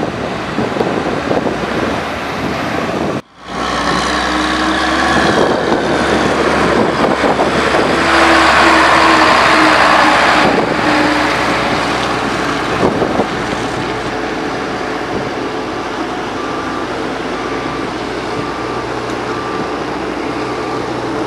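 Diesel engines of heavy road-construction machinery running under load, growing louder for a few seconds after an abrupt break about three seconds in. In the last few seconds a reversing alarm beeps about once a second over the engine noise.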